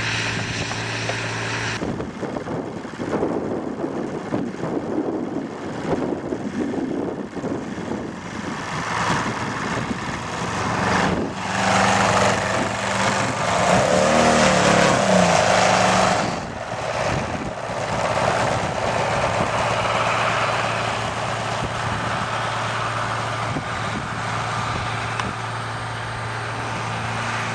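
Radio-controlled model airplane's motor and propeller running in flight. It is loudest about halfway through, where its pitch bends down as it passes close by.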